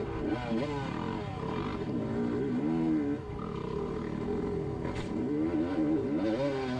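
Two-stroke dirt bike engine revving up and down under hard riding, its pitch rising and falling again and again as the throttle is opened and closed, with a brief drop about three seconds in.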